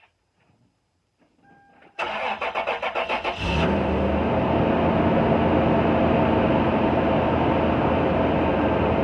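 A 2000 Toyota 4Runner being started: the starter cranks rapidly for about a second and a half about two seconds in, the engine catches, and it settles into a steady idle through a stock muffler whose seam hole has been packed with high-temperature epoxy putty.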